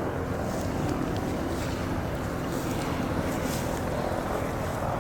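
Mi-26 heavy transport helicopter running, a steady rumble of its big rotor and twin turbine engines with wind noise on the microphone.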